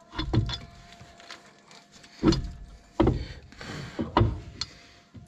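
Heavy knocks from tools striking the front suspension parts of a Ford Transit van during a ball-joint replacement: about five irregularly spaced blows, each with a short ring.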